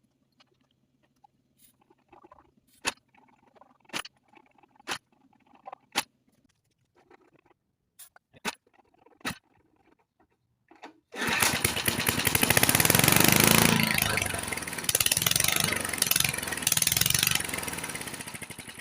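A string of sharp clicks about once a second, then the 1972 Briggs & Stratton single-cylinder mower engine suddenly fires about eleven seconds in and runs loud for several seconds on starting fluid before dying away near the end. This is the first time the long-seized engine has run.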